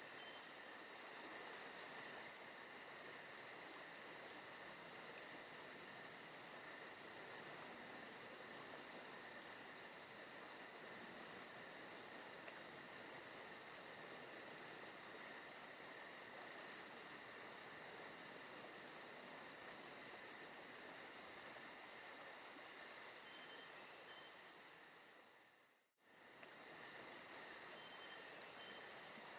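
Faint forest ambience: a steady chorus of crickets and other insects with a fast, high pulsing trill. About 26 seconds in it fades out to near silence for a moment and fades back in.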